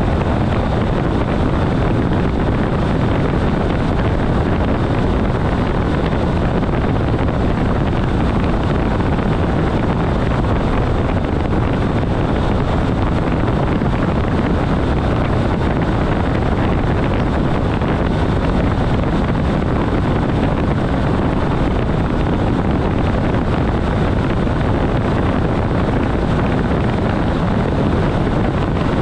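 ÖBB 4024 Talent electric multiple unit running at about 140 km/h on straight track: a steady, even running noise of wheels and rushing air, without rhythmic clicks.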